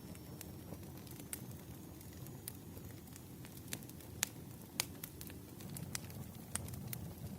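Wood fire crackling: irregular sharp pops and snaps over a low steady rush of burning logs, with two louder pops a little past the middle.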